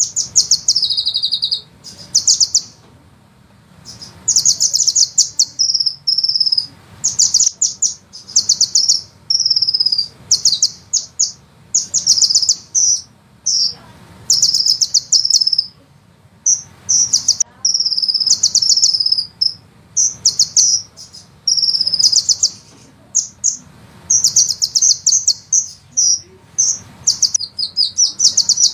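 A sunbird singing: rapid, high-pitched rolling trills in phrases of one to two seconds, repeated with short pauses between them.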